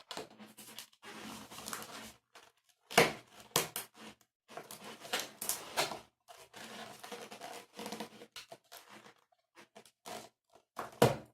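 Latex modelling balloons being handled and twisted: irregular rubbery squeaks and rubbing, with a few sharp snaps.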